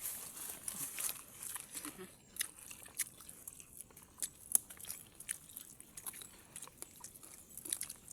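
Close-up chewing and biting of crunchy food: irregular crisp crackles and clicks from the mouth throughout.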